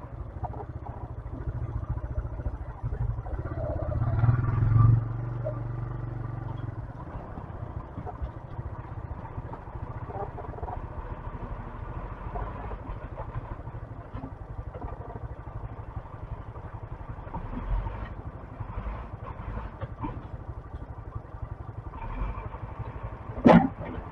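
125cc motorcycle engine running, revving up about four seconds in, with one short, sharp loud sound near the end.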